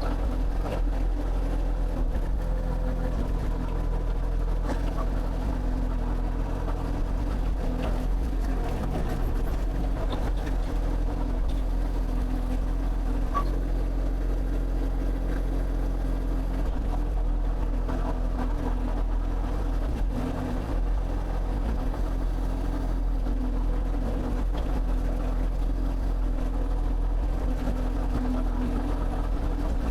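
Excavator's diesel engine running steadily at a constant speed, with occasional faint clicks.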